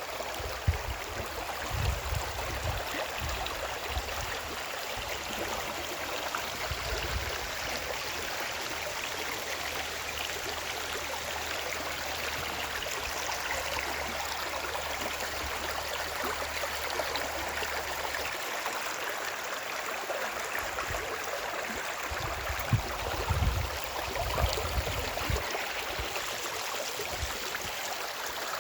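Steady rush of running water, with irregular low thumps near the start and again about three-quarters of the way through.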